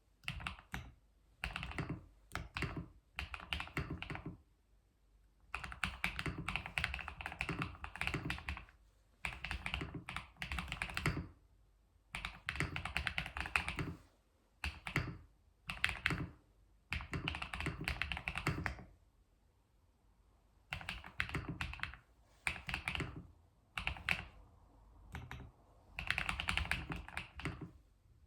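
Typing on a computer keyboard: runs of rapid keystrokes, each lasting a second or two, broken by short pauses.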